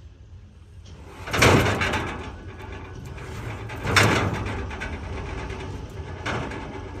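Heavy log sections being dropped and shifted: two loud thuds about two and a half seconds apart, each trailing off in a rumbling scrape, then a lighter knock near the end.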